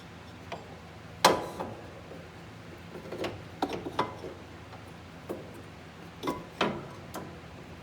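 Metal clanks and clinks as the UTV's loose parking brake caliper is handled and moved out of the way. The loudest knock comes about a second in, followed by a scatter of lighter clinks, each ringing briefly.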